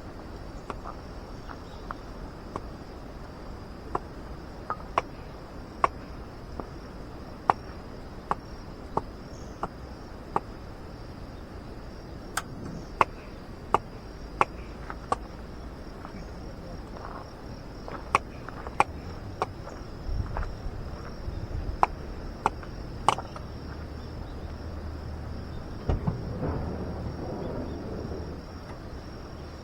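Insects, likely crickets, trilling steadily in a high continuous chorus. Scattered sharp clicks or taps come irregularly over it, thickest in the middle, with a low rumble near the end.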